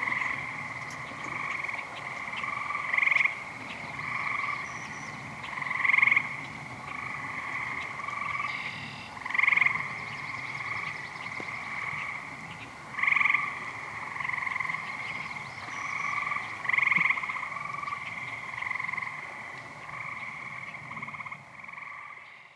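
A chorus of frogs calling without a break, with a louder, nearer call standing out every three or four seconds. The chorus fades out at the very end.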